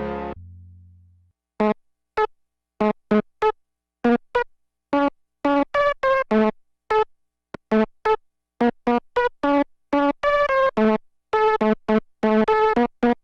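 Sequential Prophet 10 rev 4 analog polysynth, dry with no effects, playing presets: the previous patch's held sound dies away over about a second, then after a short pause a new patch plays short, separate staccato notes that come quicker and closer together near the end.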